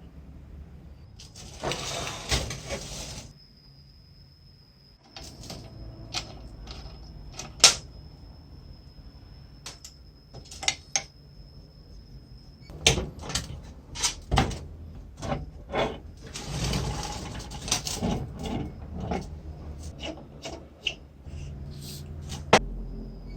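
Metal parts of an old ISHII tile cutter being handled and taken apart by hand: scattered knocks and clicks, one sharp knock about seven seconds in, and two short stretches of rattling and scraping.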